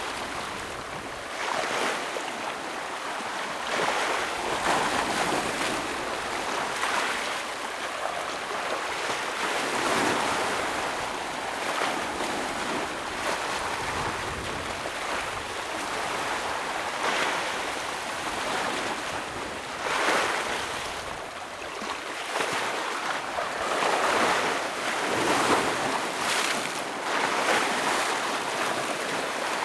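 Ocean waves breaking on rocks, a continuous wash of surf that swells every few seconds.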